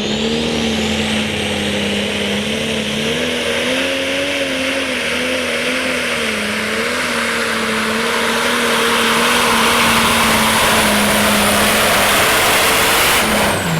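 Super stock pulling tractor's turbocharged diesel engine at full throttle dragging the weight-transfer sled, with a high turbo whistle climbing early on and the sound growing louder through the run. Near the end the engine note and the whistle drop sharply as it backs off.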